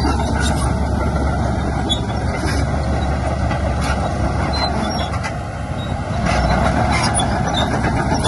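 Heavy diesel earthmoving machinery running steadily, easing off about five and a half seconds in and picking up again a moment later.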